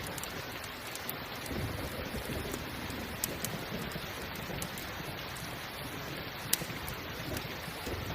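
Steady rain falling, with a campfire crackling and popping over it; one sharp pop stands out about six and a half seconds in. A low rumble of distant thunder rises about a second and a half in and runs on underneath.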